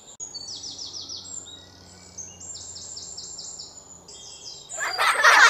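Birds chirping in quick series of short, high, falling chirps. A loud noisy burst breaks in about five seconds in.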